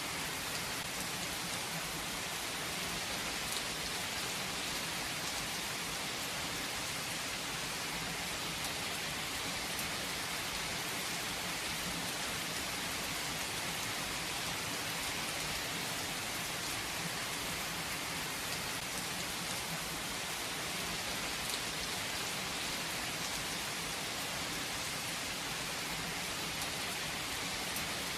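Steady rain falling: an even, unbroken hiss with a few faint single drop ticks.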